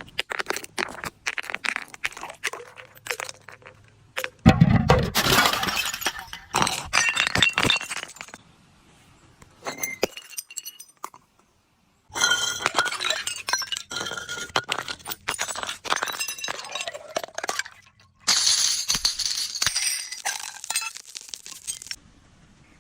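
Glass bottles breaking: the glass cracks, crunches and clinks as it is crushed into shards. This comes in several separate bursts of dense crackling, the heaviest with a deep crunch about four seconds in, with near-quiet gaps between them.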